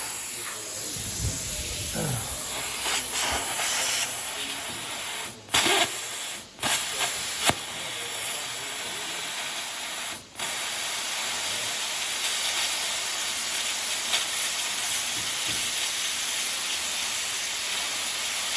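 Plasma cutter cutting metal: a steady, loud hiss that stops abruptly for a moment about five and a half, six and a half and ten seconds in, with sharp cracks around the breaks as the arc stops and restarts.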